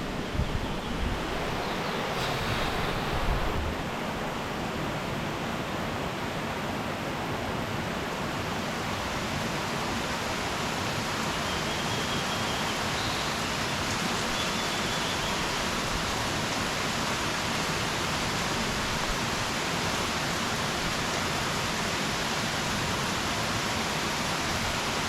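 Steady, dense rush of a rain-swollen mountain stream in flood, with a few brief louder knocks in the first few seconds.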